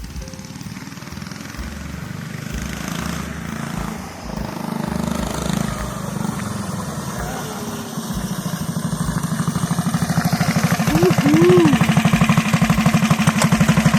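Mini bike's small single-cylinder engine, fitted with a new PZ19 round-slide carburetor, running and growing louder. Its even firing pulses are plain in the last several seconds.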